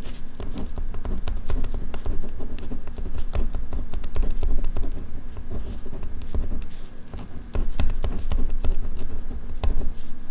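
Ballpoint pen writing on paper, close-miked: a continuous run of small taps and scratches of the tip on the page.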